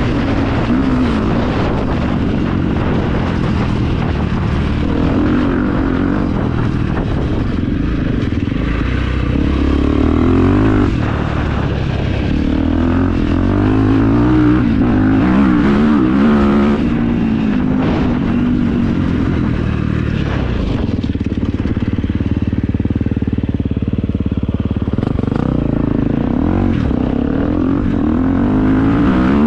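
KTM 350 EXC four-stroke single-cylinder dirt bike engine running through an Akrapovič exhaust, its pitch climbing and dropping again several times as the throttle is opened and closed.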